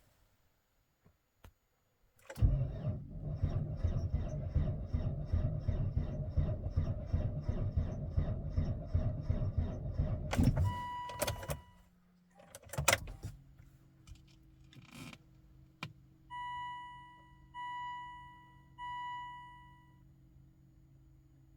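A 2006 Volvo XC90 D5 diesel's starter cranking the engine in deep cold for about eight seconds, the engine turning over with a fast, even rhythm of compression strokes, then stopping without the engine catching. Clicks follow, then a faint steady hum and three evenly spaced dashboard warning beeps near the end.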